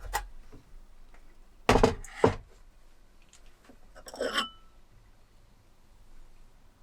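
Objects being handled at close range: a click, two loud knocks about half a second apart, then a short ringing clink of metal or glass, like camp dishes or utensils being set down.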